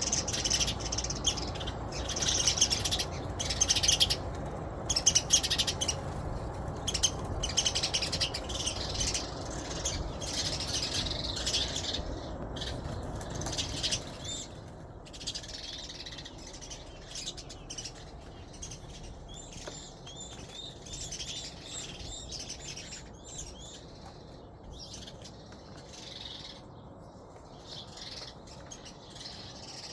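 Small birds chirping and twittering, a dense chatter that thins out about halfway through, over a low steady rumble that also fades at the same point.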